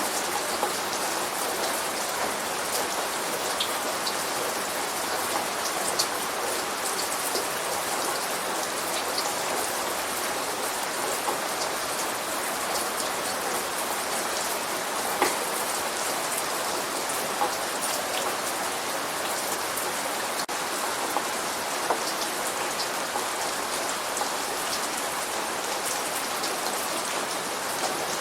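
Steady light rain falling, an even hiss with scattered individual drops ticking on a surface.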